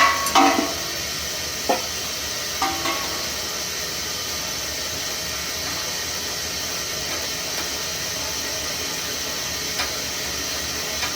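A few sharp metal clinks and knocks, mostly in the first three seconds and once more near the end, as parts and tools are handled on a steam boiler's sight-glass gauge, over a steady hiss.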